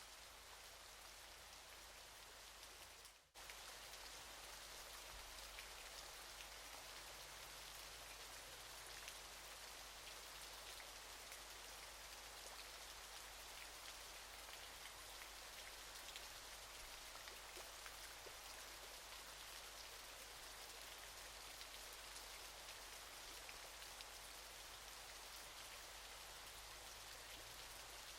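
Steady hiss of falling water from a waterfall, with fine droplet patter. It drops out for a moment about three seconds in, then resumes a little louder.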